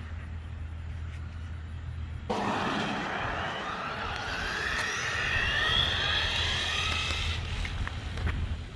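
Xinlehong Q901 1/16 RC car with a Racestar 3900 kV brushless motor on a 2S LiPo launching about two seconds in. The motor whine rises in pitch as the car accelerates to speed, then dies away near the end, over a steady low rumble of wind.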